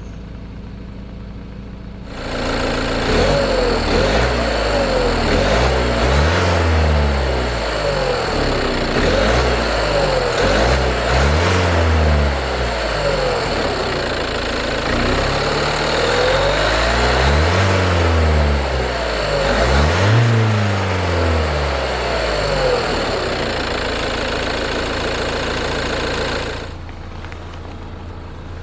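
2021 Renault Trafic's 2.0-litre twin-turbo diesel four-cylinder idling, then from about two seconds in revved several times, each rev rising and falling in pitch, before settling back to idle near the end.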